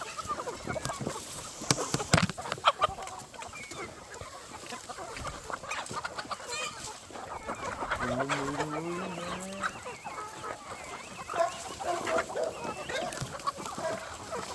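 Flock of chickens clucking and calling. A few sharp clicks come about two seconds in, and a lower, rising call comes about eight seconds in.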